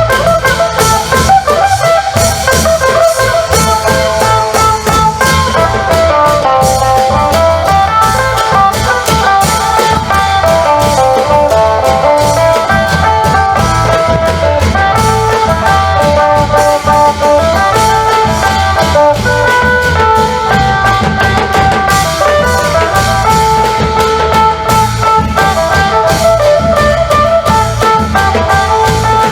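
Isan long-drum band music: an amplified phin lute plays a running melody over a steady beat of klong yao long drums.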